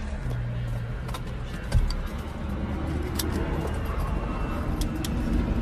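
Helicopter idling on the ground: a steady low engine hum, with scattered clicks and a single heavy thump a little under two seconds in.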